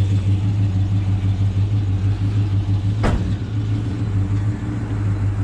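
Camaro Z28's V8 engine idling steadily with a slightly pulsing beat. A single sharp knock about three seconds in.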